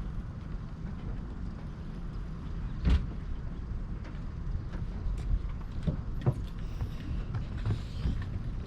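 Towboat's engine running steadily as a low rumble during the tow, with a few knocks, the loudest about three seconds in.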